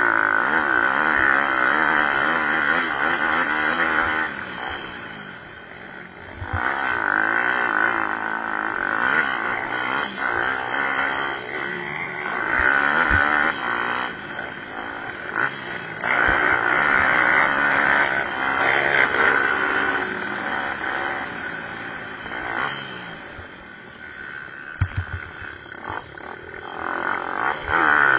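Pit bike engines revving up and down as the bikes race by, swelling louder and fading away several times. A few brief knocks near the end.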